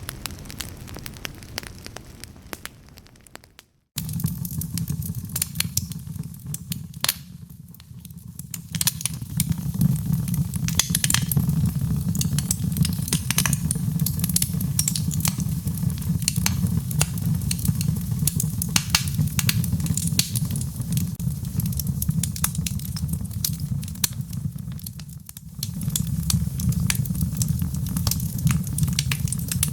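Wood fire in a fireplace crackling and popping over a steady low rumble of flames. It fades out and cuts to silence about four seconds in, then starts again abruptly; there is a shorter dip near the end, like the seams of a looped recording.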